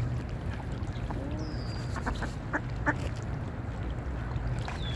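Waterfowl calling: a few short calls clustered in the middle, over a steady low rumble.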